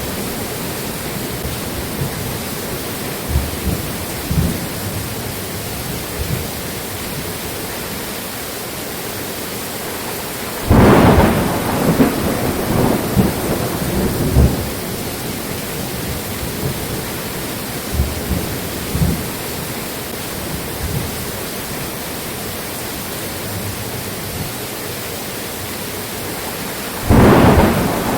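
Thunderstorm: steady rain hiss with low rumbles of thunder. Two loud thunderclaps break out, about eleven seconds in and again near the end, each followed by a few seconds of rolling rumble.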